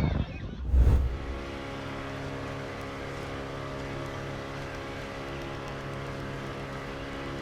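A loud low thump about a second in, then an engine running at a steady pitch and level.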